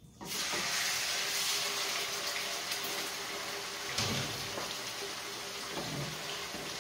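Raw chicken pieces tipped into hot oil in a wok, setting off a sudden sizzle that carries on as a steady frying hiss. A single knock about four seconds in.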